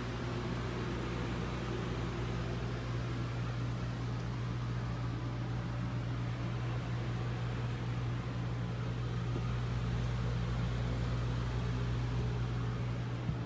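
Steady hum of a fan-type electric machine: a low tone with airy noise over it. A click comes near the end, and the low tone drops away.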